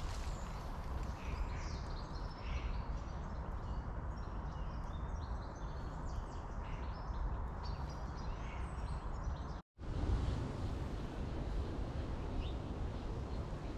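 Small birds chirping and twittering on and off over a steady low rumble of outdoor noise. The sound cuts out for a split second just under ten seconds in, and the chirps thin out after that.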